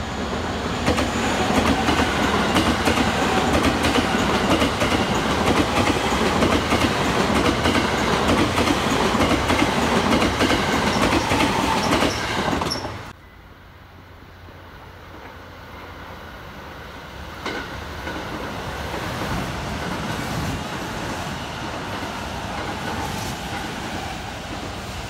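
JR West electric commuter train passing close by, with loud rolling rumble and wheel clatter on the rails. The sound breaks off abruptly about halfway through, then a quieter train rumble builds again and holds steady.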